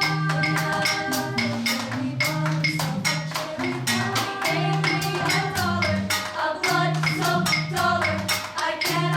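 Chamber choir singing a rhythmic arrangement in several vocal parts, over fast, steady percussive hits about four to five a second.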